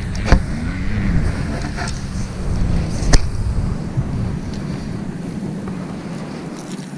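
Wind buffeting the microphone: a steady low rumble, with two sharp clicks, one just after the start and one about three seconds in.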